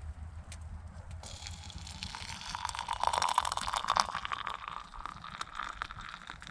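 Wood fire crackling in a clay stove-fireplace, with a run of sharp pops and a hissing that is loudest about three to four seconds in.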